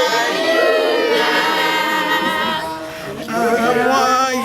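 A congregation singing together in chorus, many voices at once with wavering, vibrato-laden notes; the singing thins briefly about three seconds in, then picks up again.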